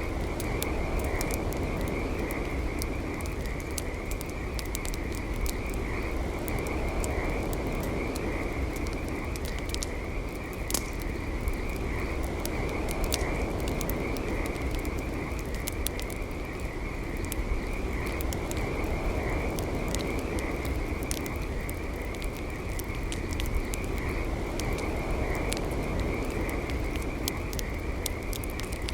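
Campfire burning with frequent sharp crackles and pops over a low, steady rush. Behind it a steady, high trilling chorus of calling animals runs on without a break.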